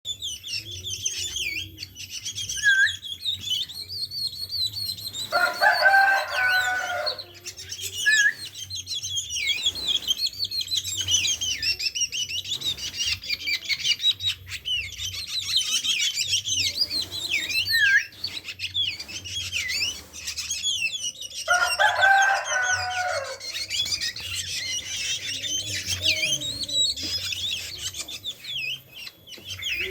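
Drongo chirping and calling rapidly and without pause, many quick up-and-down high notes. A rooster crows twice, about five seconds in and again about twenty-two seconds in.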